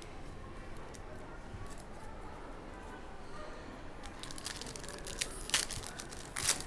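Foil trading-card pack wrapper crinkling and tearing open, a run of sharp crackles starting about four seconds in, with the loudest two near the end. Faint voices murmur underneath.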